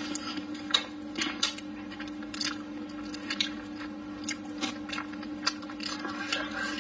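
A person chewing braised pork trotter and rice close to the microphone: irregular wet mouth smacks and clicks, several a second. A steady low hum runs underneath.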